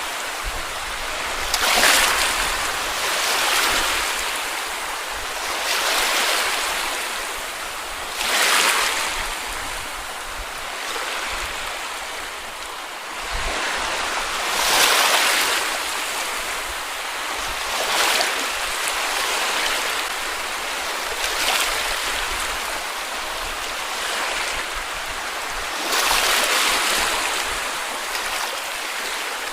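Small sea waves washing onto a sandy beach, each wash swelling and fading every few seconds.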